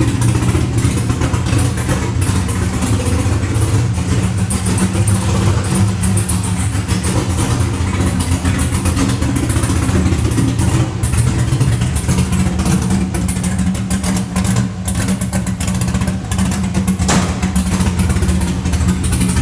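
2005 Corvette's 6.0-litre LS2 V8 with a BTR Stage 4 cam idling untuned on its first start after the cam install, running through long-tube headers and a Borla exhaust with the axle-back removed. The low, loud exhaust note wavers slightly but holds steady, with no revving.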